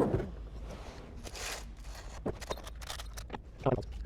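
Scattered metallic clicks and knocks of hand tools working on bolts, with a brief scrape about a second and a half in.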